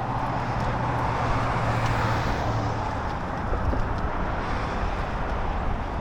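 Road traffic: a passing motor vehicle's tyre and engine noise swells to a peak about two seconds in and fades, over a steady rush of noise.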